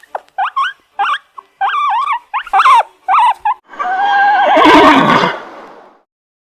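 A quick string of short, high whining yelps, then one long horse whinny with a quavering pitch, starting a little past halfway and fading out.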